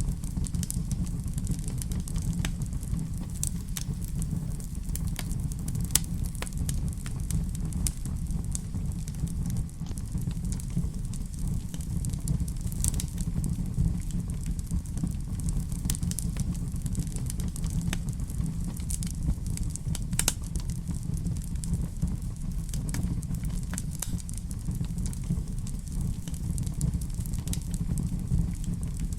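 Wood fire burning in a fireplace: a steady low rumble of flames with many small, irregular crackles and pops scattered throughout.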